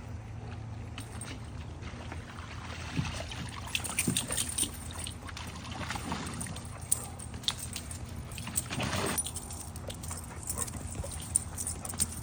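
Dogs playing in a swimming pool: water splashing and sloshing with sharp clicks and metallic jingles, over a steady low hum. A longer splash comes about nine seconds in.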